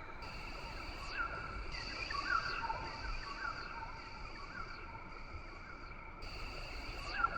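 Rain forest ambience: a steady high insect drone under many short, quick bird chirps and whistles, repeating throughout.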